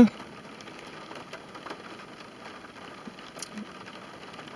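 Light rain on a car: a quiet, steady hiss with scattered faint drop ticks.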